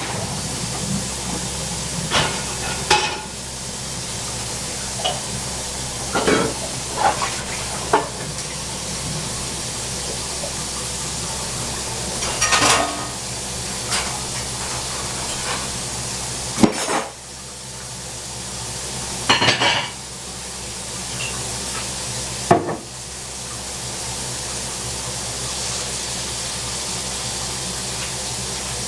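Dishes and utensils clinking and clattering every second or two over a steady hiss.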